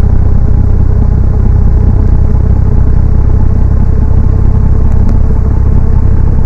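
Ceiling fan running: a loud, steady low rumble with a faint even hum over it.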